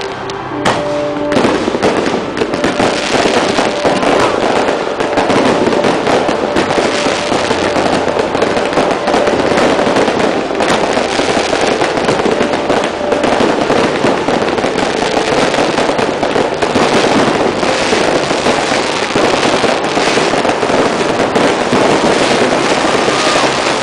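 Fireworks display going off at very close range: a dense, unbroken run of bangs and crackles.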